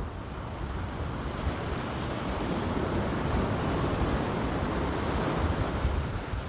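Sea waves washing up the shore, a continuous rushing that swells a little in the middle, with wind buffeting the microphone.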